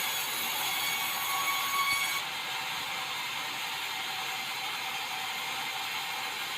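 Sawmill saw running through white meranti timber with a steady, high, hissing whine. About two seconds in it drops a little in level and loses some of its highest part, then carries on steadily.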